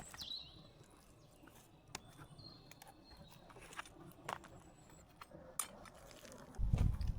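Scattered light snaps and clicks of twigs and forest litter, with a few faint, thin bird whistles. Near the end a louder rustling, crunching noise begins.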